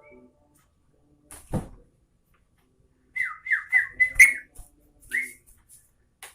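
Yellow-vented bulbul (trucukan) singing: a quick run of short whistled notes, each falling in pitch, loudest about four seconds in, with one more note about a second later. A short noisy sound comes about a second and a half in.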